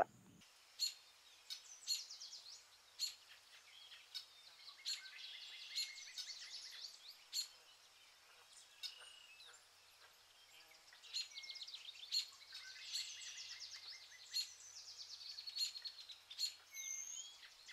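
Birds chirping and calling, faint: many short high chirps and quick trills, thinning out midway and busier again in the second half.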